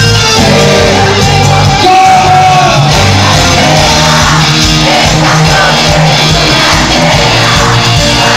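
Live cuarteto band playing loudly in a large hall, with a singer's voice over the band and shouting on top.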